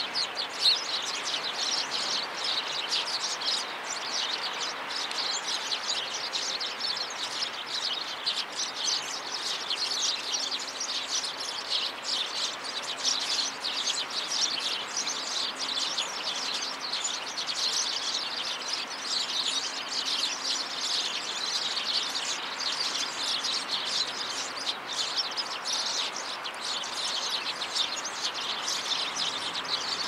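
Birds chirping continuously, many short calls overlapping in a dense chorus.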